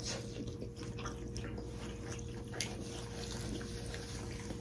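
Wet chewing and mouth smacks of people eating momo dumplings: many soft, irregular clicks over a steady low hum.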